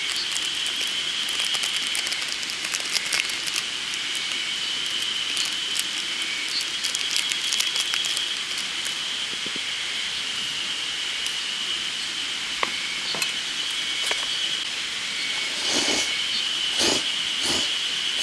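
Spring cicadas in a steady high chorus, with a campfire crackling and popping over it; a few louder snaps near the end.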